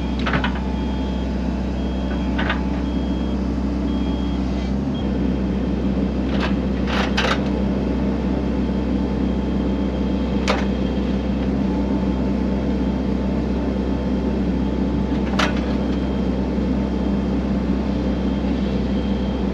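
Excavator diesel engine running steadily, with a few sharp knocks scattered through.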